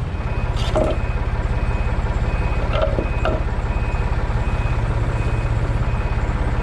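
A heavy vehicle's engine runs steadily while its reversing beeper sounds in a repeating high beep, and a few short knocks come near the start.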